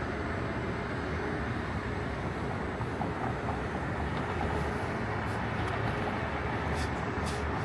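City street traffic noise: a steady hum and rumble of passing vehicles, with a few short clicks near the end.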